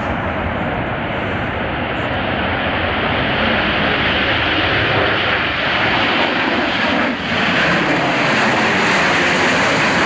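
Jet engines of a Tupolev Tu-160 Blackjack supersonic bomber at takeoff power: a loud, steady rushing noise that builds over the first few seconds, with a brief dip about seven seconds in.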